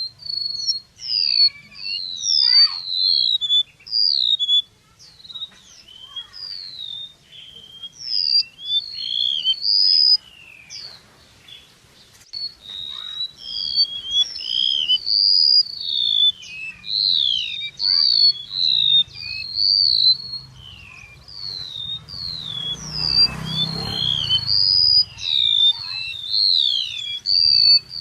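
Flowerpecker calls used as a trapping lure: a rapid, continuous run of thin, high chirping notes, each a quick slide in pitch. Toward the end there is a brief noisy rustle under the calls.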